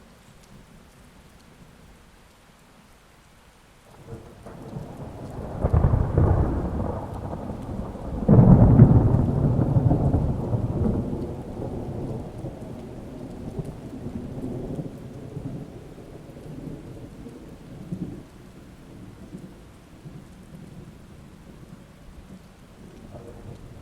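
Steady rain with a long roll of thunder: it swells about four seconds in, breaks into a louder clap just after eight seconds, then rumbles away slowly.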